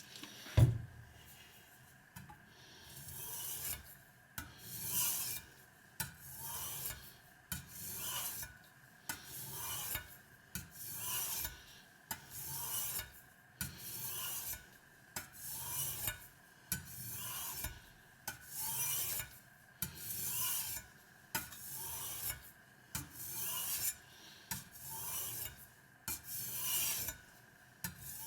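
Steel kitchen knife blade scraped back and forth on a wet Spyderco medium aluminium-oxide bench stone, about one rasping stroke a second. A single low knock comes about half a second in.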